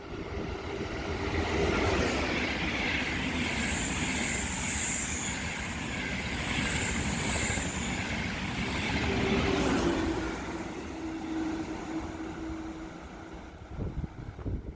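A train passing close by, its wheels running on the rails. Partway through there are two brief high-pitched wheel squeals.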